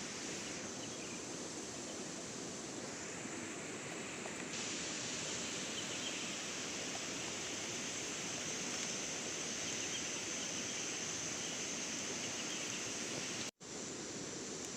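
Steady hissing noise, with a brief cut to silence near the end.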